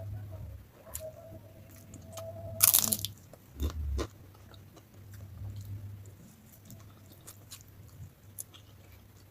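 Close-miked eating of spicy Mie Gacoan noodles: biting and chewing with small wet mouth clicks. A louder noisy burst comes about three seconds in, and a low thud follows about a second later.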